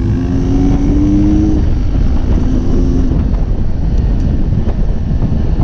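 Dirt bike engine running as the bike rides along, its tone climbing a little over the first second and a half. Loud, rough low rumble runs underneath throughout.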